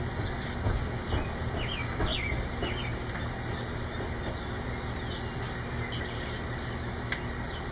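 Steady rain hiss with a low, continuous rumble underneath, while small birds chirp a few times, in a cluster about two seconds in and again near the end.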